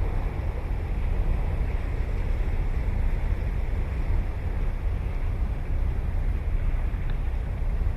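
Ocean surf washing steadily onto the beach, with a deep rumble of wind on the microphone under it.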